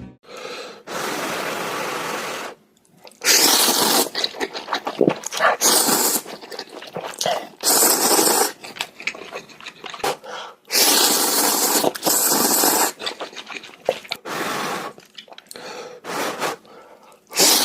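Noodles being slurped in loud, hissing draws, about seven of them lasting up to two seconds each, with short mouth clicks between.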